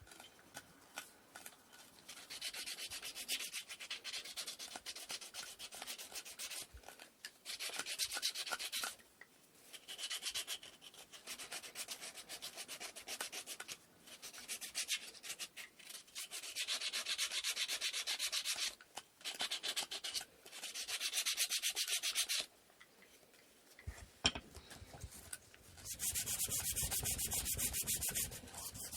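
Sandpaper rubbing on wooden inkle loom parts in runs of quick back-and-forth strokes, with short pauses between runs. A low, muffled handling noise comes in a few seconds before the end, and then the sanding starts again.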